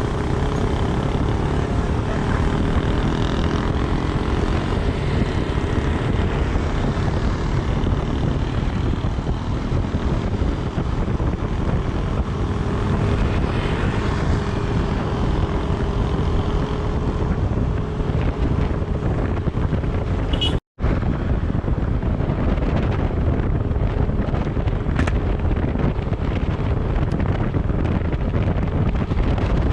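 Steady rumble of road and wind noise from a moving vehicle on the road. The sound cuts out for an instant about twenty seconds in.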